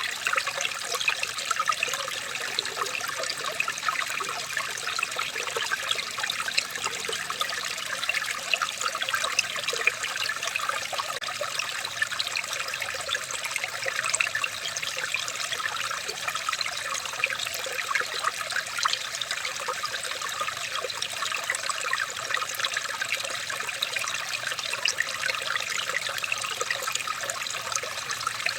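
Running water trickling and splashing steadily, a continuous bright bubbling with no pauses.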